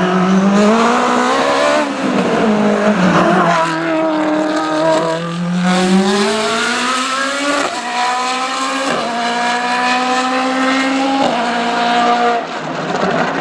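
Race car engine accelerating hard, its pitch climbing in each gear and dropping sharply at each upshift, several times over; the sound eases off near the end.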